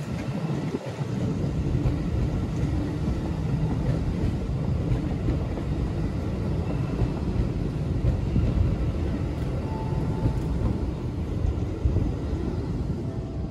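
Keikyu electric train passing through a station without stopping, a steady noise of wheels on rail.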